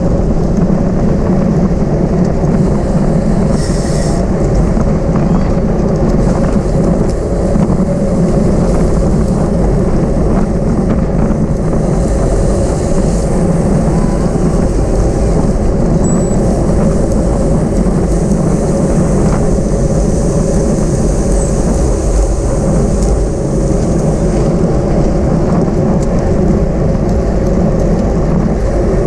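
Steady wind rumble on the microphone of a camera riding on a racing bicycle at speed, mixed with road and tyre noise.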